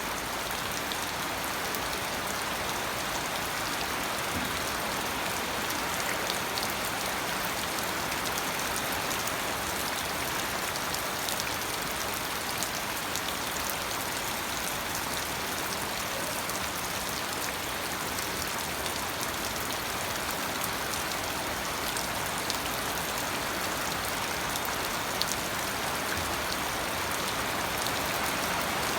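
Steady rain falling, with a constant hiss and scattered drops ticking on a surface.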